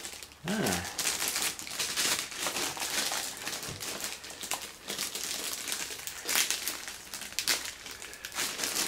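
Packaging being unwrapped and handled, an irregular crinkling and rustling of wrapping material as the Roomba is taken out of its box. A brief vocal sound about half a second in.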